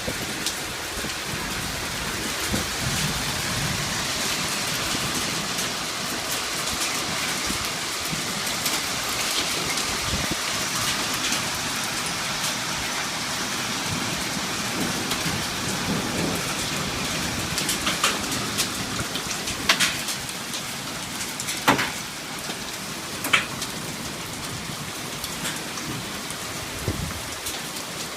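Hailstorm: a dense, steady clatter of hail and rain pelting surfaces. A few louder, sharp knocks from bigger stones come in the second half.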